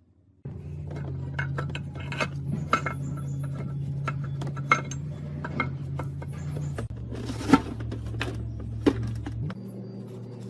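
Metal parts and tools clinking and clattering by hand, over a steady low machine hum that starts half a second in and shifts in pitch twice.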